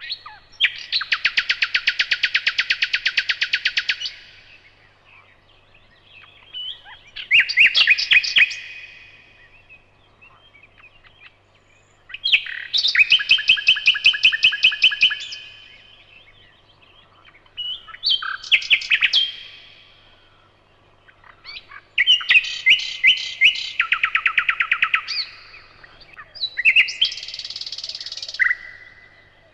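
Nightingale singing: six phrases of fast repeated notes and trills, each one to a few seconds long, with pauses of about two seconds between them.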